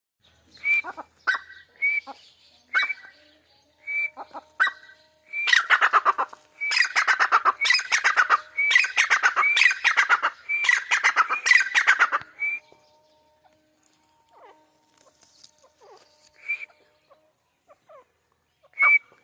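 Grey francolin (dakhni teetar) calling: a few short separate calls, then a long loud run of rapid repeated notes for about seven seconds, then a couple of single calls near the end.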